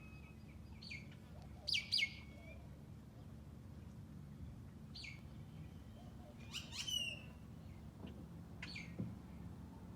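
Wild birds calling: a series of short, sharp calls that drop quickly in pitch, the loudest two close together just under two seconds in and another loud cluster about seven seconds in.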